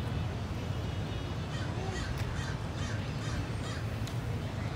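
A bird calling outdoors: a quick run of harsh caws starting about a second and a half in and lasting about two seconds, over a steady low rumble.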